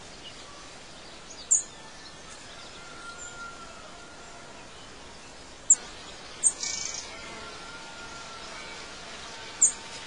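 Outdoor ambience of birds chirping: a few short, high chirps, about four of them spread through, over a steady hiss.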